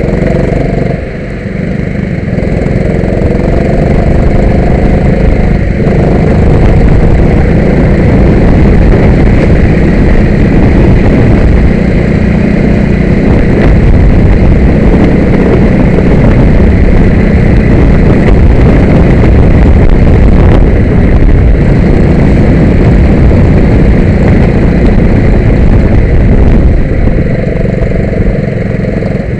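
Go-kart engine running loud and close, revving up in the first few seconds and then held at high revs, with the engine note standing out again near the end.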